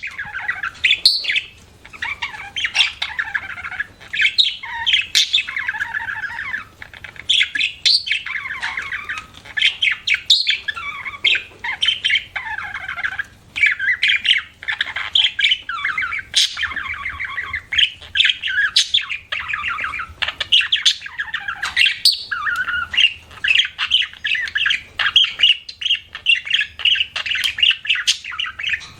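Budgerigar warbling and chattering almost without a break, a run of quick wavering notes mixed with many short, sharp chirps and clicks.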